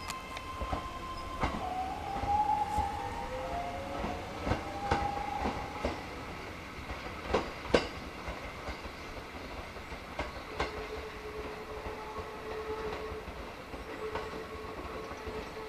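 Hakone Tozan Railway electric train running past, its wheels clicking over rail joints. A rising whine sounds over the first few seconds, and a steady high tone comes in about ten seconds in.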